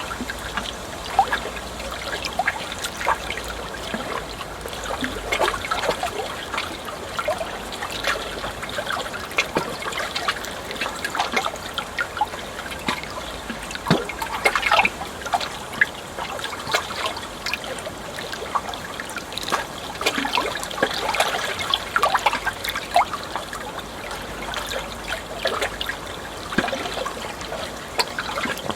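Water trickling and gurgling, a dense, irregular run of small splashes and plinks.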